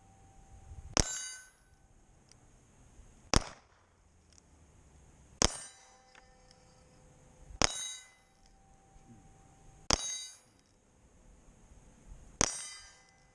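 Six pistol shots fired slowly, about two seconds apart, at a steel plate rack. Several are followed by the brief ring of a struck steel plate.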